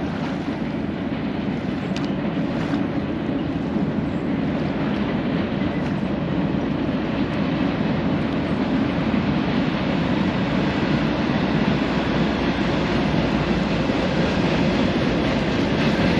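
Boat underway: a steady engine drone mixed with a rush of wind and water, growing slightly louder.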